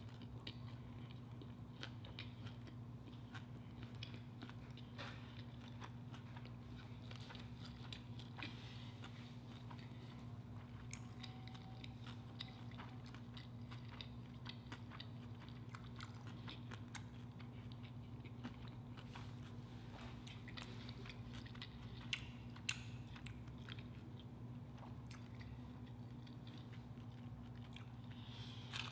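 Close-miked chewing and small wet mouth clicks of someone eating a soft flour-tortilla taco, with a couple of louder clicks near the end, over a steady low hum.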